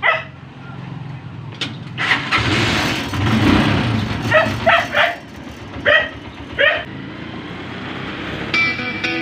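Honda motorcycle engine starting about two seconds in and running, its level swelling and easing. A dog barks five times in the middle, and guitar music comes in near the end.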